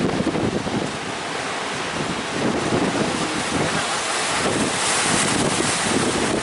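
Strong wind buffeting the microphone over the rush of rough sea waves. A louder, brighter hiss swells up about five seconds in.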